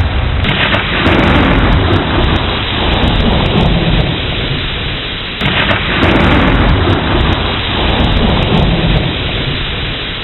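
Steady rain with rolling thunder: a deep rumble that swells sharply about half a second in and again just past halfway, dying back after each.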